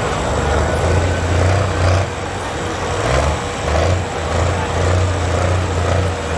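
Diesel engine of a light pro stock pulling tractor running loud, its low drone swelling and dipping every second or so.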